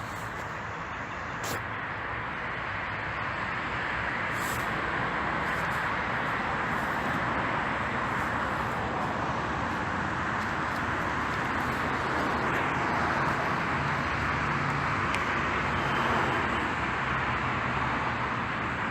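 Steady rain falling, a dense even hiss that grows a little louder a few seconds in.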